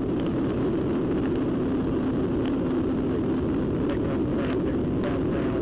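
A vehicle running at high speed in a police pursuit: a steady, unbroken drone of engine, road and wind noise.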